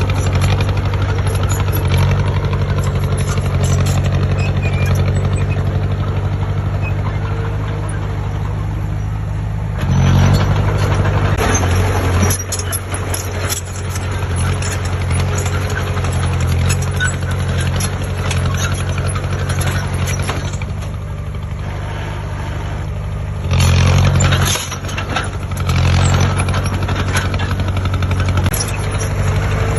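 Heavy diesel engine of earthmoving machinery running steadily, revving up briefly about ten seconds in and twice more near the end, with scattered knocks and rattles.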